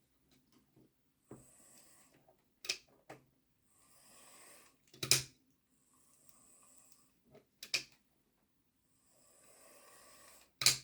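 Hornby OO gauge Britannia Class model locomotive's motor and freshly fitted gears whirring in short runs of about a second, stopping and starting several times with sharp clicks in between, as the new gear is run in.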